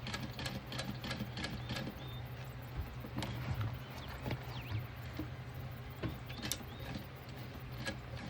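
Irregular light clicks and taps of sewing work at an industrial sewing machine, over a steady low hum. A faint bird chirp comes near the end.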